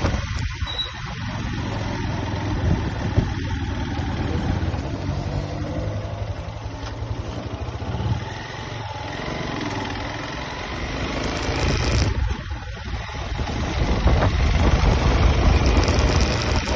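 A motor vehicle's engine running while driving, with road noise, its pitch shifting up and down and growing louder in the last few seconds as it speeds up.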